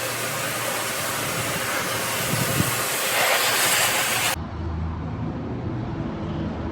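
Self-serve car-wash high-pressure wand spraying water, a steady hiss that cuts off about four seconds in. A low, steady engine hum follows.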